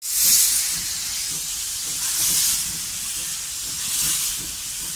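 Train running, heard as a hiss that swells about every two seconds over a low rumble.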